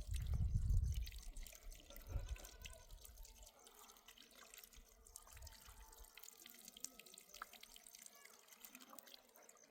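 Water dripping and trickling, in scattered small drops and splashes. A low rumble is loudest in the first second.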